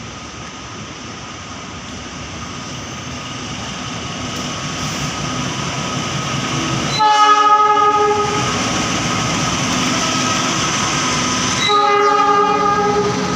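A train approaching and growing steadily louder, sounding its multi-tone horn twice: a blast of about a second and a half, and a shorter one about five seconds later.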